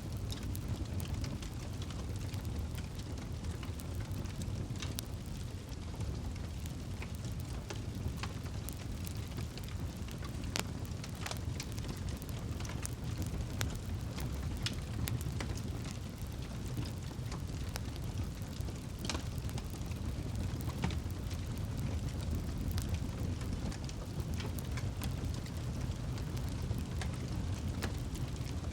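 Campfire burning: a steady low rumble with scattered sharp crackles and pops from the burning wood, and a few louder snaps now and then.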